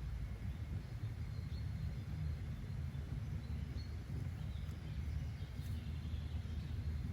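Nature-sounds ambience: a steady low rumble with faint short bird chirps now and then.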